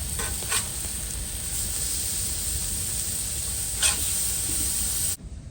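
Sirloin steaks sizzling on a hot Blackstone griddle: a steady hiss with two sharp grease pops, about half a second in and near four seconds, over a low rumble. The sizzle cuts off suddenly near the end.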